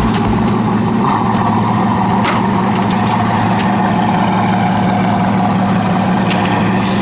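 Sports car engine running steadily at a constant pitch, with no revving.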